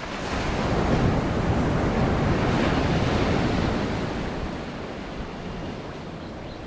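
Ocean surf: a wave breaking and washing in, swelling about half a second in and fading away after about four seconds, with some wind noise on the microphone.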